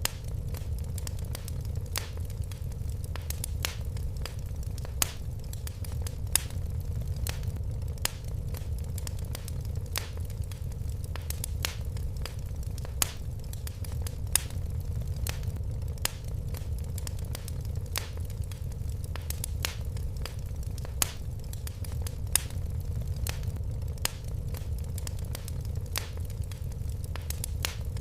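Wood fire crackling: frequent sharp pops and snaps over a steady low rumble of the flames.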